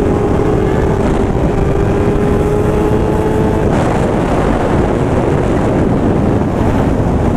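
Sportbike engine running at a steady pitch under a rush of wind on a helmet-mounted microphone. A little past halfway the engine note drops away and the wind rush grows louder.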